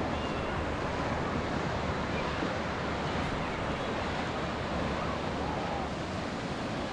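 Ocean surf washing on the beach, a steady wash of noise, with wind buffeting the microphone.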